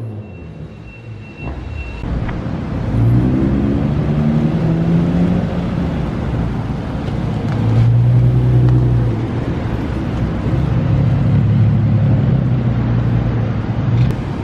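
A car's engine running with a low droning hum whose pitch rises and falls in steps over a steady low rumble.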